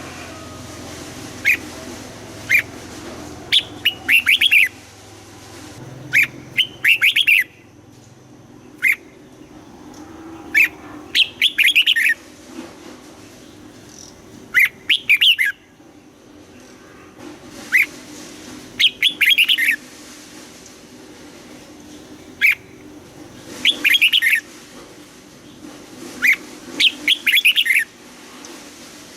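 Red-whiskered bulbul singing in short phrases of quick, clear notes, a new phrase every two to three seconds, over a faint steady low background hum.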